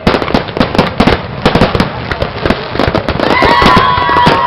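Fireworks going off in quick succession: many sharp bangs and crackles. About three seconds in, a steady high tone joins them and holds.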